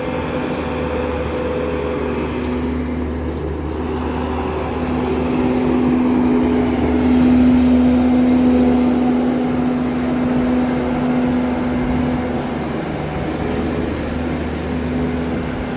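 An engine running steadily at a constant pitch, growing a little louder about halfway through.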